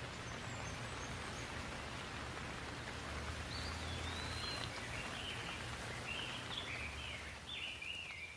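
Steady rain falling, with a low rumble underneath. From about halfway in, a bird sings a run of short, quick phrases over the rain.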